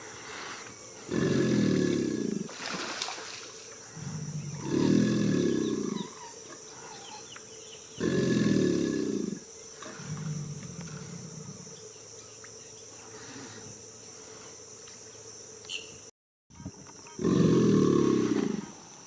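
American alligator bellowing: a series of deep, rumbling bellows about a second long each, about five of them spaced a few seconds apart with a longer gap near the end. In late May this is the bull alligator's breeding-season bellow.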